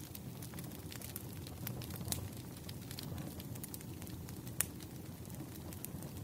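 Wood fire burning: a steady low rumble of flames with irregular sharp crackles and pops of burning firewood, one louder pop about four and a half seconds in.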